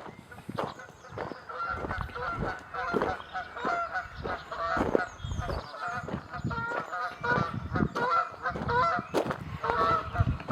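A flock of geese honking over and over, many short calls overlapping, with footsteps thudding underneath.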